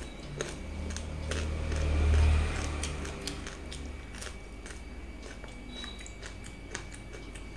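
A person eating by hand, biting and chewing a mouthful close to a clip-on microphone, with many small wet mouth clicks.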